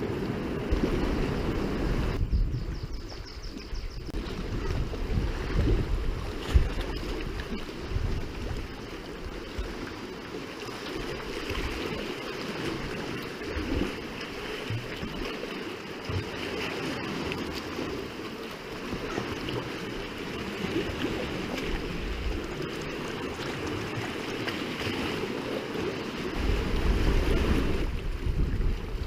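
Sea water washing and lapping, with wind rumbling on the microphone.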